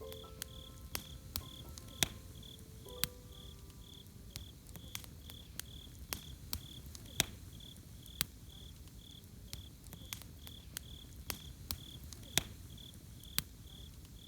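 Campfire crackling, with sharp irregular pops over a low steady rumble of burning wood, and a cricket chirping steadily, about three chirps a second.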